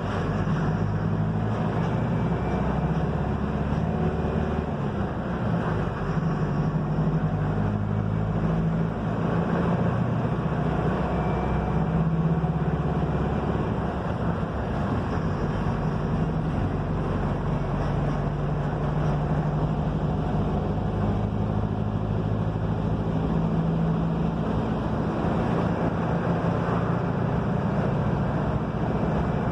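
Mercedes-Benz OF-1721 BlueTec 5 bus (Marcopolo Torino S body) on the move: its diesel engine runs steadily over road rumble, the engine note shifting in pitch every few seconds as the bus changes speed and gear.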